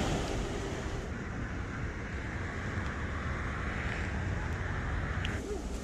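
Steady rushing of ocean surf with wind on the microphone, cutting off suddenly near the end.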